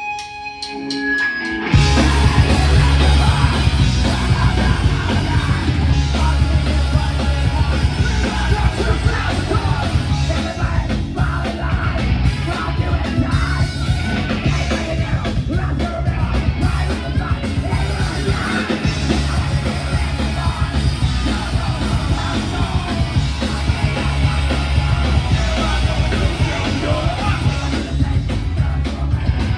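Rock band playing live through a club PA: a few single notes, then the full band comes in about two seconds in with heavy bass, drums and distorted guitar, and a singer yelling over it.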